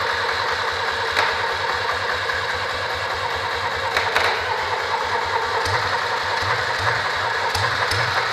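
Citroën Acadiane's 602 cc air-cooled flat-twin engine, out of the van on a bench, running at a steady idle just after being restarted from twenty years laid up. A few light clicks are heard, and the low beat swells slightly near the end.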